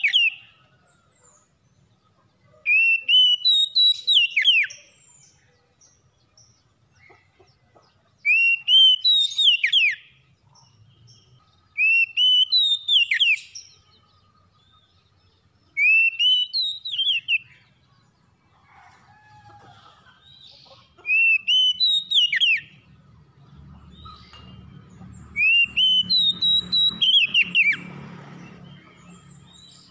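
Oriental magpie-robin singing: the same loud whistled phrase, a rising whistle breaking into quick falling notes, repeated about every four to five seconds. A faint low rumble runs under the last few seconds.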